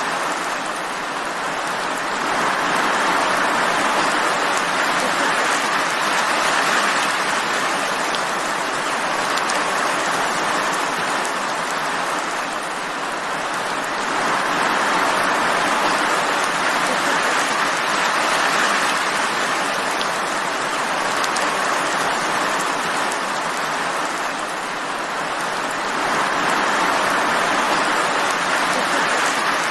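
Steady rain falling, an even hiss that swells and eases gently every several seconds.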